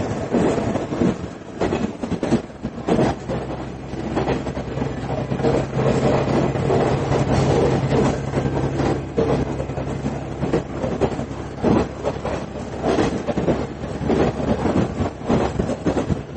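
Running sound of a JR KiHa 110 series diesel railcar, heard inside the passenger cabin. Wheels clatter over rail joints with repeated clicks over a continuous rumble. A steady low engine hum runs under it through the middle of the stretch and then fades.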